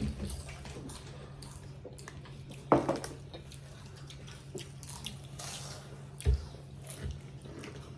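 People chewing Doritos tortilla chips, with many short crisp crunches, a sharper click about three seconds in and a dull thump a little after six seconds.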